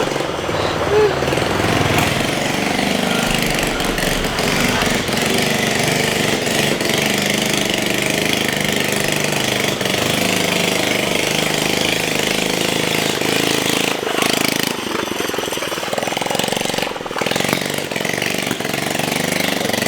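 Modified Honda Chaly motorcycle's small engine running, its pitch wavering up and down with the throttle, changing note about fifteen seconds in.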